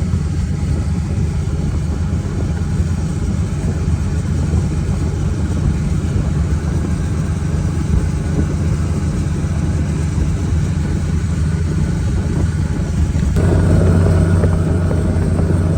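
Carbureted boat motor running under way, over a steady rush of wind and water. The motor has a fuel-starvation problem, with fuel treatment being run through it. Near the end the engine note changes suddenly, becoming louder and stronger.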